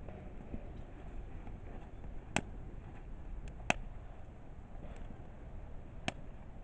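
Firewood burning in a kamado hearth: a low steady rumble with three sharp crackling pops and a few fainter ticks.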